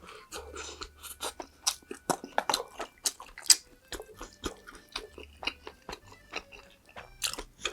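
Close-miked chewing of a mouthful of food: a quick run of short wet clicks and smacks, several a second, with a few louder snaps.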